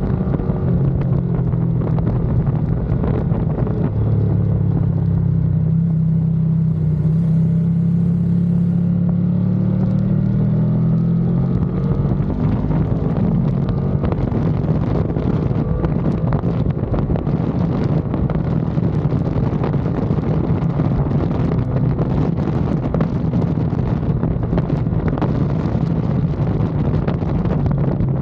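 Ducati Panigale V2's L-twin engine running hard on track, heard onboard. The engine note climbs slowly for several seconds, and wind rush on the microphone grows stronger in the second half.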